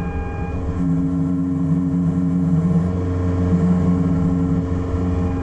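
Excavator's diesel engine running steadily, its load shifting a little as the machine works.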